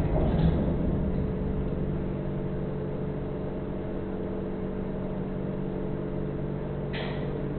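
Truck engine running with a steady drone, settling quieter over the first two seconds. A short, sharp sound comes about seven seconds in.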